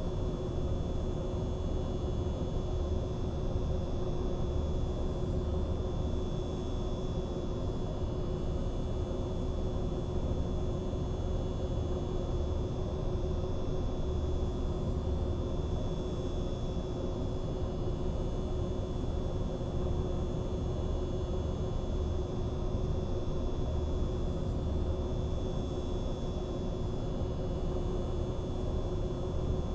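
Mistral ceiling fan running steadily: a constant motor hum over an even rush of air.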